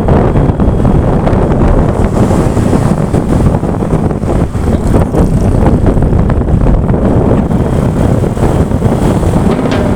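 Loud, rumbling wind noise buffeting the microphone, rising and falling unevenly.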